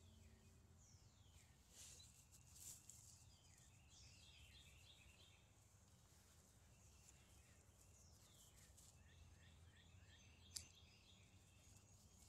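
Faint birdsong: repeated short descending chirps and stuttering twittering trills over a low background rumble, with a single sharp click near the end.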